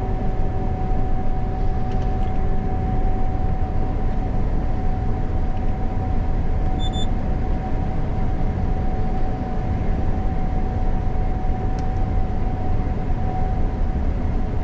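Gleaner combine harvester running during soybean harvest, heard from inside the cab: a steady low drone with a constant whine over it.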